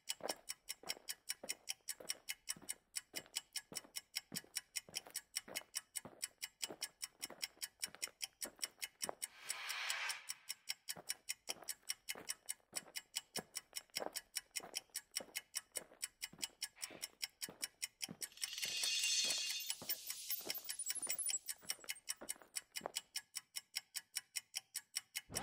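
Clock ticking steadily, a little over two ticks a second. A soft swell comes in about ten seconds in, and a brighter shimmering swell rises near nineteen seconds.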